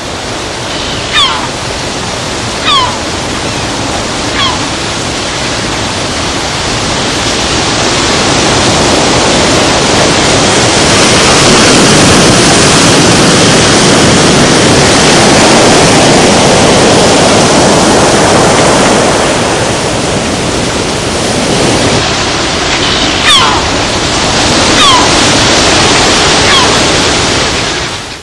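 Steady rushing water noise like surf, swelling louder toward the middle and easing off again. Three short falling whistles, about a second and a half apart, sound near the start and three more near the end.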